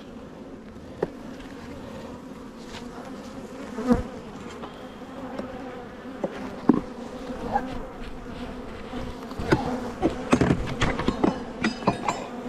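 Honeybees buzzing around an open hive, a steady hum. A string of sharp clicks and knocks joins in, coming thick and fast in the last few seconds.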